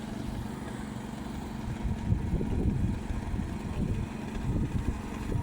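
Two-stroke chainsaw fitted with a carbide-tipped chain running steadily, cutting through 24-inch cast iron water pipe.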